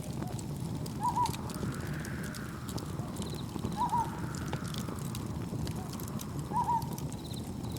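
Layered nature ambience: a wood campfire crackling with scattered small pops over a low rumble, slow swells of gently washing waves, and cricket chirps, with a short double chirp recurring about every three seconds as the loudest sound.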